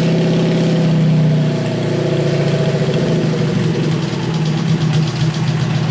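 Worn-out Kohler KT17 twin-cylinder engine of a Simplicity 7117 garden tractor running shortly after a cold start. About a second and a half in, its speed drops, and it runs a little unevenly at the lower speed.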